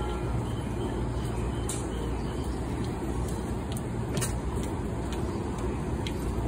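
Steady low hum of a commuter train standing at a busy station platform with its doors open, over platform bustle, with a few sharp clicks.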